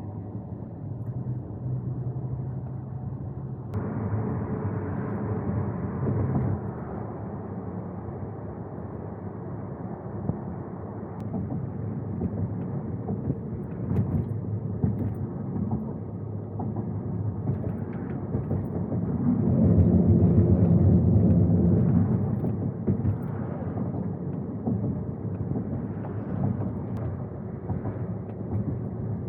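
Vehicle running with a steady low rumble, swelling louder for a couple of seconds about twenty seconds in.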